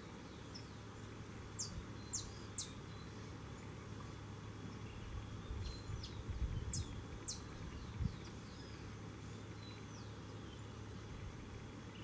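Sharp, high chip calls of a small songbird: very short notes that slide steeply downward, three in quick succession about two seconds in and two more around seven seconds, with fainter ones between.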